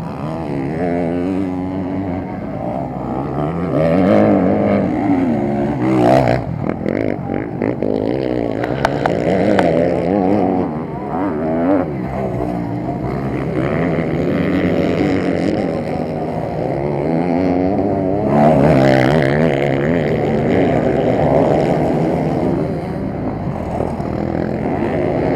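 Several motocross bikes running at once, their engines revving up and dropping back again and again, with overlapping rising and falling engine notes.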